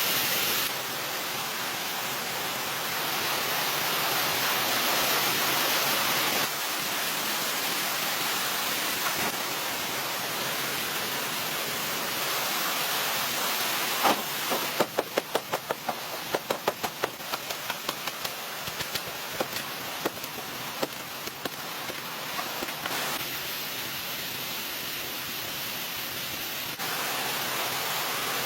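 A steady rushing hiss, like running water or wind, that jumps in level at a few points. About halfway through comes a quick run of sharp knocks, a few a second, for several seconds, thinning out toward the end.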